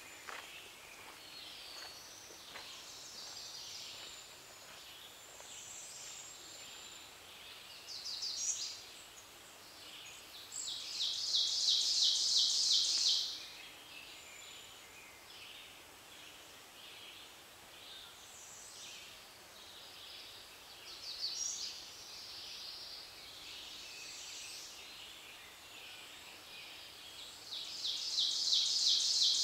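Woodland songbirds singing in spring. One bird gives a loud, rapid, even trill lasting about two and a half seconds, twice, about 11 and 28 seconds in, with fainter chirps and songs of other birds between.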